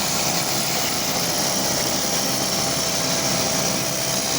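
Pressure washer running: a steady engine drone under the even hiss of a high-pressure water spray.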